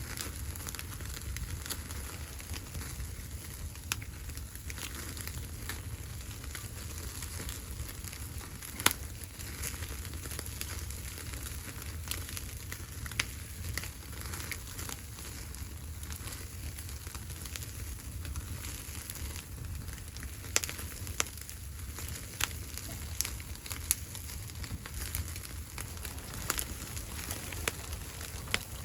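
Wood fire crackling: a steady low rush broken by scattered sharp pops, the loudest about nine seconds in and a cluster more near the end.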